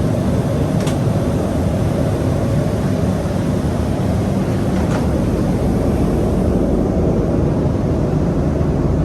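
Steady cabin noise inside an Airbus A330-200 airliner in flight: an even, low rushing of airflow and engines. Two faint clicks are heard, about a second in and near the middle.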